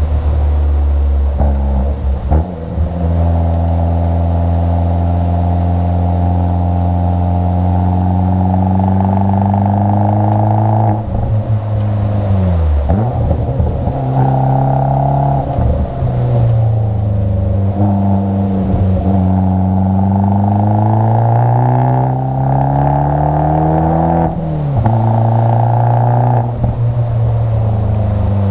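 Abarth 500's 1.4-litre turbocharged four-cylinder engine pulling hard, its note climbing steadily in pitch over long stretches and dropping back sharply several times as the car is driven along a winding road.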